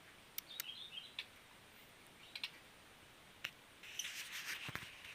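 Small cage bird moving about in its cage: scattered light clicks and scratchy rustles, a brief faint high twitter about a second in, and a longer rustle near the end.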